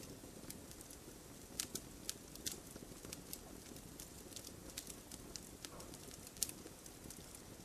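Wood fire burning in a fireplace: a low steady rumble of flames with irregular sharp crackles and pops of burning firewood, the loudest pops about a second and a half in and near the end.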